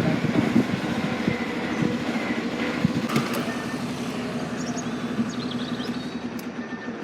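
Heavy vehicle engine running steadily with a low hum, slowly getting quieter.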